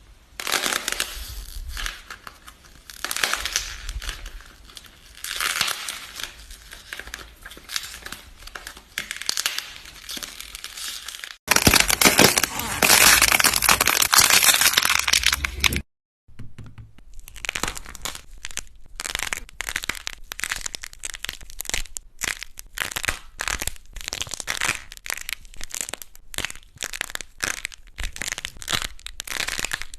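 Crackling, crunching sounds of something being crushed or crumpled, in three separate bursts. First comes a swelling, dense crackle. After an abrupt cut about 11 seconds in there is a louder, continuous crackle, and from about 16 seconds in a rapid run of separate crisp crackles.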